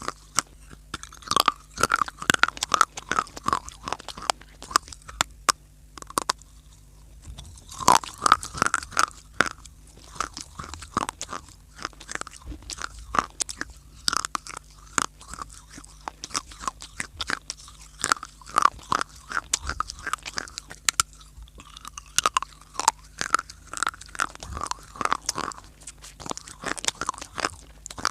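Dry baked clay (mitti) being bitten and chewed: a steady run of sharp cracks and gritty crunches, coming in clusters.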